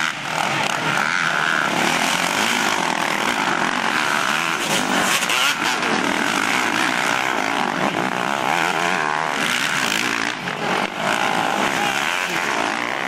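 Motocross bike engines revving as the bikes race past, the engine pitch rising and falling with the throttle.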